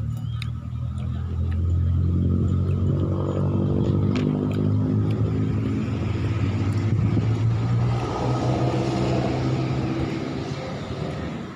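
A motor vehicle's engine passing close by: it grows louder from about a second in, runs loudest through the middle and fades away near the end.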